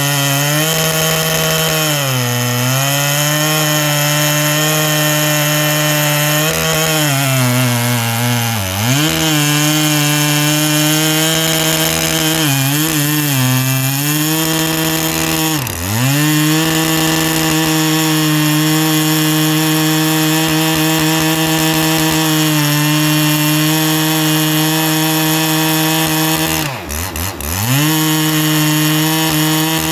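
Ported Husqvarna 3120XP two-stroke chainsaw running at high revs while cutting through a big log, its pitch dipping briefly several times as the load changes. The rev limiter keeps cutting in even at about half throttle, which the owner takes as a sign the saw makes more power than it should.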